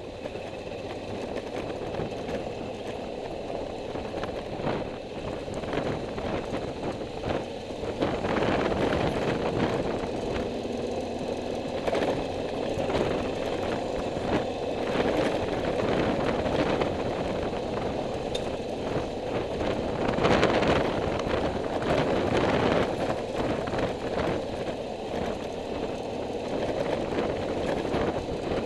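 A vehicle being driven along the road: steady engine and road noise, with many short knocks scattered through it, getting louder about eight seconds in.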